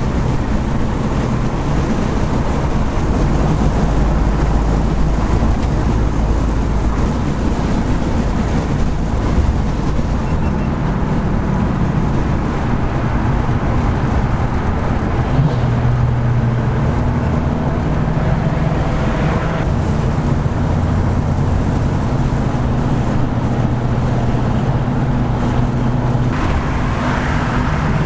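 Classic muscle car being driven: a steady engine drone under road and wind noise. The engine's pitch shifts a little about halfway through.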